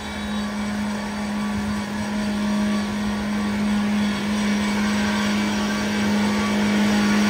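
Suzuki Jimny's four-cylinder petrol engine held at high, steady revs as the wheels churn through deep mud, getting a little louder towards the end.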